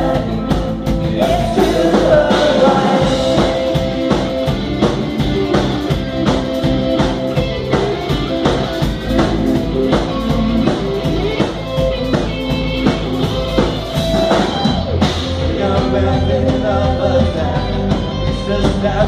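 Live rock band playing: drum kit, bass, guitars and keyboard-like sustained notes, with some singing, recorded loud through a phone's microphone.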